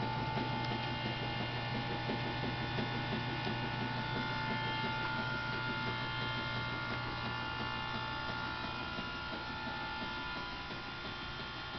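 Steady electrical hum, like mains hum, made of a few fixed tones over a light, fluttering background noise. It slowly fades a little toward the end.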